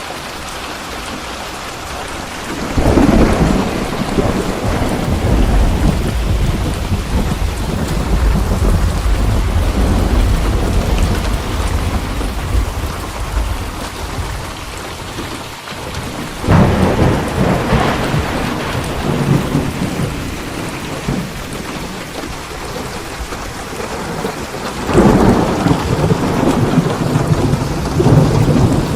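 Steady rain falling, with thunder rolling in three times: about three seconds in, again about halfway through, and once more near the end. Each peal rumbles on for several seconds, and the first rumbles longest.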